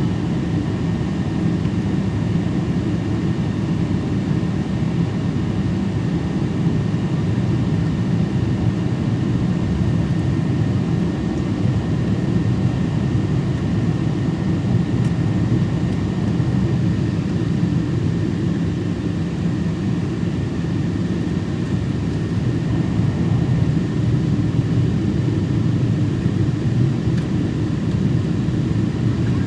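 Steady jet engine and airflow noise heard inside the cabin of a Boeing 777 in flight, a constant low rumble with no change in level.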